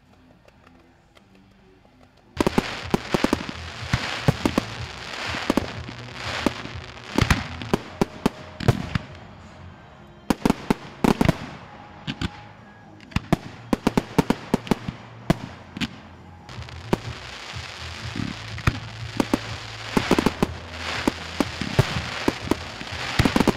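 Fireworks and firecrackers going off in rapid, irregular loud bangs over continuous crackling. They break in suddenly about two seconds in and keep going.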